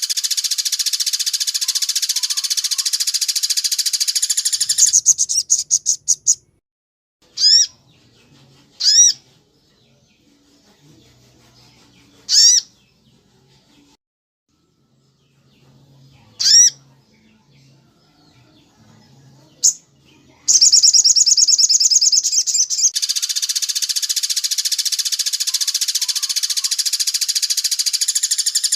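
Bird calls: a fast, unbroken high chattering trill, which stops after about five seconds. Five single sharp, sweeping call notes follow, a few seconds apart. The dense trill returns about two thirds of the way through.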